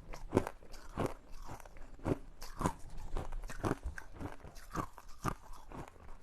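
Ice cubes being chewed, crunching and cracking between the teeth in a steady rhythm of about two crunches a second.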